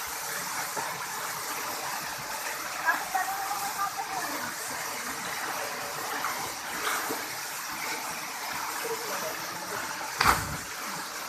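Waterfall with a steady rush of falling water, and faint voices under it. A single sharp thump comes near the end.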